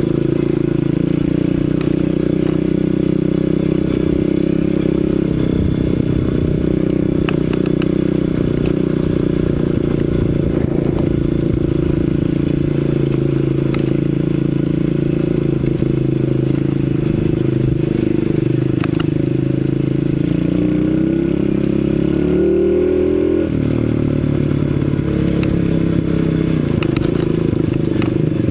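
CRZ 125 Pro pit bike's single-cylinder four-stroke engine running while riding, mostly at steady revs. Around two-thirds of the way through it revs up for a few seconds, then drops back. Scattered clicks and rattles run over it.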